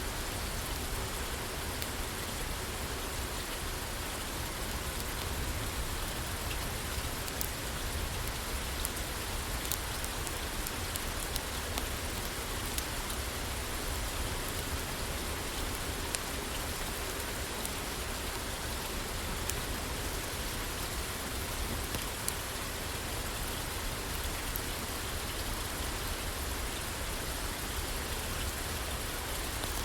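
Steady rain falling on a roof, an even hiss with a low rumble, with scattered faint sharp ticks.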